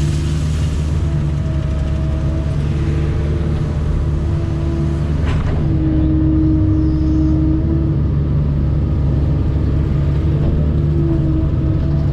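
Diesel engine of a working earthmoving machine (excavator or skid steer) running steadily under load, with a higher whining tone that comes and goes as it works, slightly louder about halfway through.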